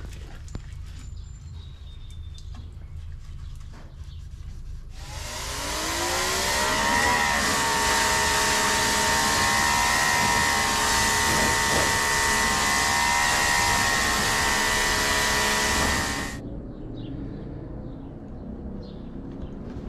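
Power washer running: its motor spins up with a rising whine about five seconds in, then runs steadily with a loud spraying hiss for about eleven seconds before cutting off. A low steady rumble sits underneath throughout.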